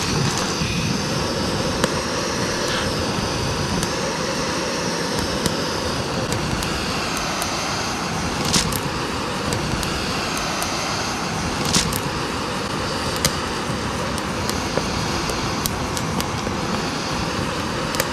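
Steady rush of a fast mountain stream flowing over rocks, with a couple of short clicks in the middle.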